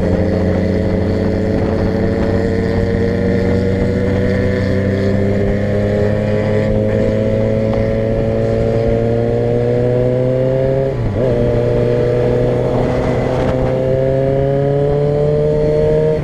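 Vehicle engine pulling steadily under way, its pitch slowly rising as it gains speed. About eleven seconds in there is a brief break and a drop in pitch at a gear change, then it climbs again.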